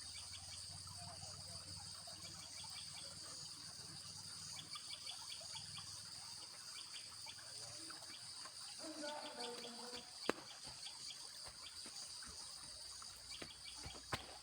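Steady, high-pitched chorus of jungle insects, with a single sharp click about ten seconds in and a few more clicks near the end.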